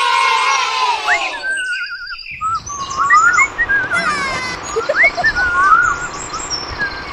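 Birds chirping and calling in quick, varied short notes over a steady outdoor hiss. A musical phrase fades out during the first second or so.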